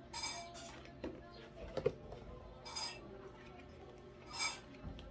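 Short clinks and rattles of hard items being handled while unpacking a TIG welding machine and its accessories, about five separate clatters.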